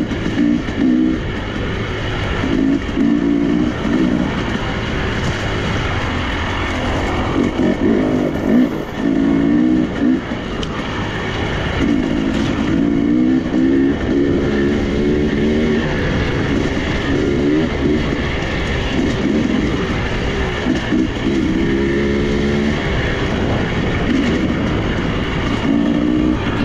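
Off-road motorcycle engine running under way, its revs rising and falling again and again as the throttle is worked, over a steady rush of wind and riding noise.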